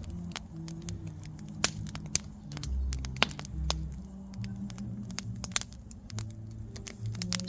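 Wood campfire crackling, with irregular sharp pops and snaps from the burning firewood.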